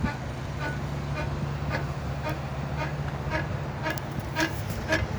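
Street sound while cycling: a steady low engine hum from a nearby motor vehicle for the first three seconds or so, under a regular ticking about two to three times a second.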